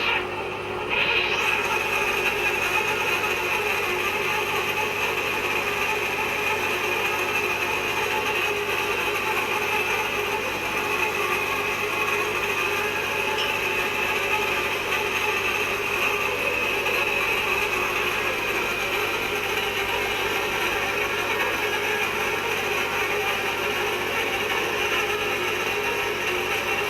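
Manual hot tapping machine cutting into a steel ammonia pipe: a steady, unbroken mechanical cutting noise.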